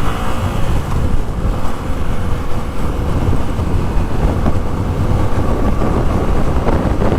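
Motorcycle running steadily at road speed, with wind noise on the rider's microphone over a steady low rumble.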